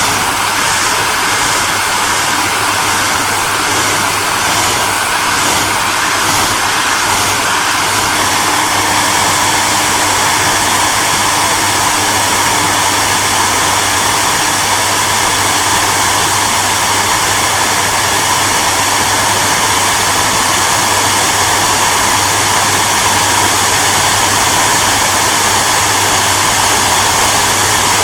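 Hairdryer running steadily: an even rush of blown air over a low, constant motor hum.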